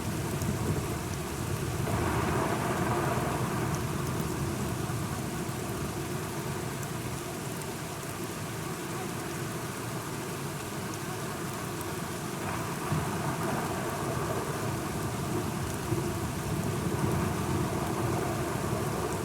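Steady rain falling, with a low rolling rumble of thunder that swells about two seconds in and again past the middle.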